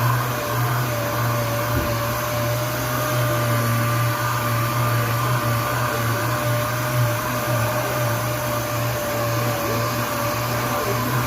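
Power sander running steadily, sanding epoxy primer on a car body panel: an even whirring hum with a constant whine on top.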